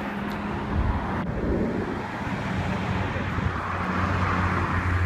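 Road traffic running past on a busy roadside, a steady rush of tyres and engines that swells a little toward the end as a vehicle comes closer.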